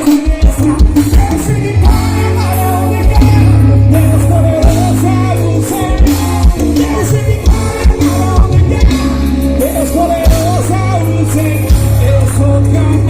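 Live gospel band playing with a singing voice over heavy bass and a regular kick drum.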